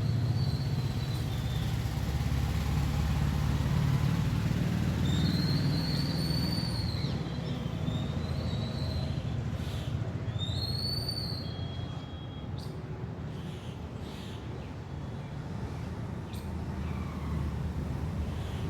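A bird giving a few drawn-out, high, arching calls, three or four times, over a steady low rumble. A few faint clicks come later.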